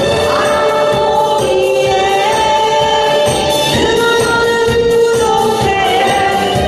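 A woman singing a pop song live with long held notes, over a backing track with a steady beat.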